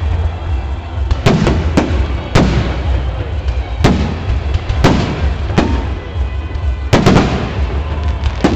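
Fireworks display: shells bursting roughly once a second, about nine sharp bangs with echoing tails, two in quick succession about seven seconds in, over a steady low rumble.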